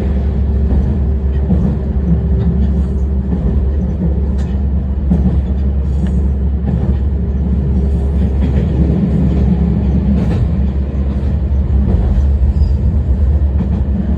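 Tarumi Railway Hi-Mo 295 diesel railcar running along the line: a steady low drone of engine and wheels on rail, with a few short clicks along the way.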